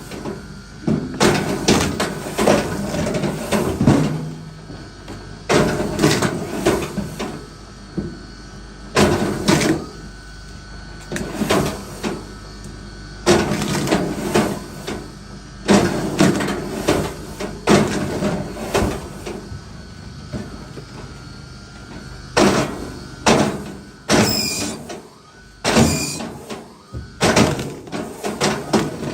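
Wood being worked or split: repeated knocks and clattering of wood, coming in clusters every second or two.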